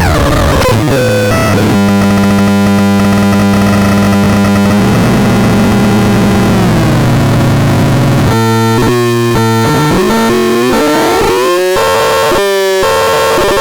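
Synthesizer sound demo: a fast falling pitch sweep, then a steady, buzzy low tone. About eight seconds in it turns into a pulsing pattern that repeats just under once a second, its pitch gliding up before settling.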